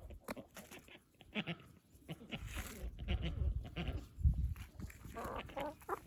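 Domestic waterfowl from a backyard duck and goose flock calling: a string of short calls, with a denser run about five seconds in.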